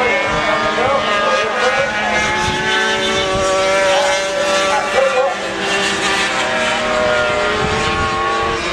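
Several racing motorcycle engines running hard at the same time, their pitches shifting up and down and then holding steadier in the middle of the stretch.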